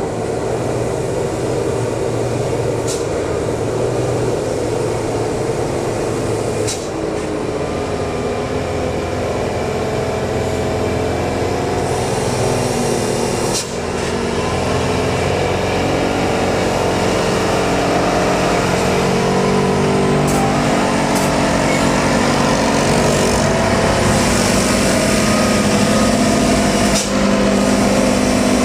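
Heavy truck engine running steadily and loudly, growing gradually louder, with a few sharp clicks or knocks along the way.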